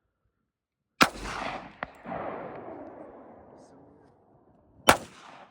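.45 Colt handgun fired twice, about four seconds apart: each shot is a sharp crack followed by a long rolling echo that fades over about three seconds. A smaller sharp crack comes under a second after the first shot.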